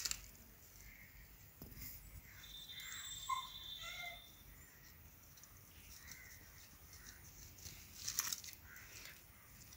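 Faint birds calling, a series of short calls with one high steady note lasting about a second and a half, and a few brief sharp clicks near the start and about eight seconds in.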